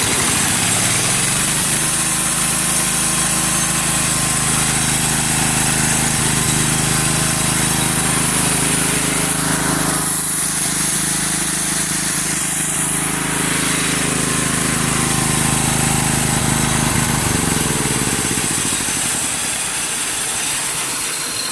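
Old John Deere engine on a portable sawmill, just started: it revs up over the first couple of seconds, runs steadily, and slows down again near the end.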